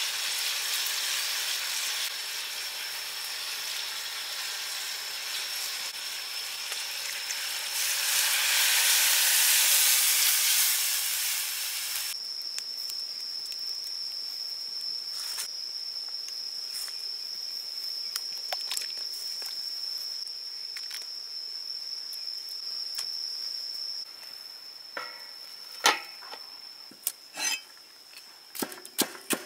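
Quail eggs sizzling in a hot wok, the frying hiss swelling for a few seconds, then cutting to a quieter simmer of sauce with occasional small pops under a steady high-pitched whine. Near the end, a few sharp knocks of a cleaver chopping spring onions on a wooden board.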